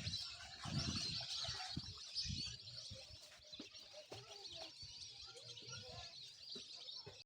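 Many birds chirping together in a continuous, dense chorus of overlapping high calls, with irregular low rumbles underneath.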